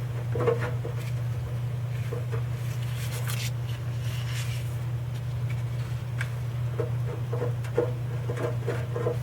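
Steady low hum with scattered small clinks and knocks of hand tools working on a truck's oil dipstick tube adapter, and a short hiss near the middle.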